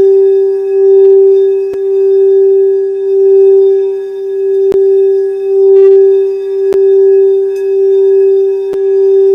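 Singing bowl sounding one steady low tone with fainter overtones, its loudness swelling and fading about once a second. A few faint clicks come through it.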